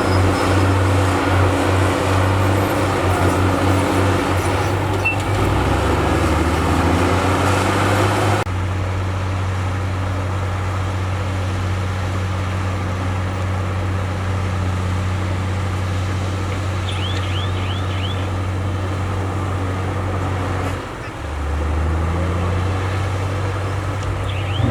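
Heavy diesel earthmoving machinery running steadily with a deep, even engine hum. The overall sound changes abruptly about a third of the way in, and the engine note dips and shifts pitch near the end.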